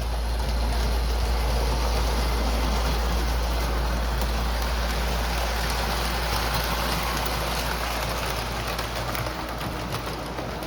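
Lionel O gauge model train running on three-rail tinplate track: a steady rumble and rattle of the motor and wheels, swelling about a second in and easing slightly toward the end.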